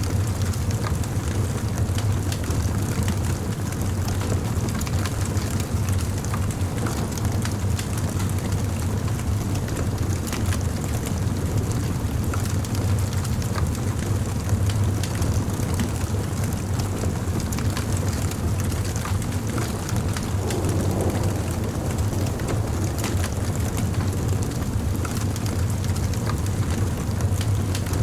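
Wood fire burning, with many small crackles and pops over a steady low rumble.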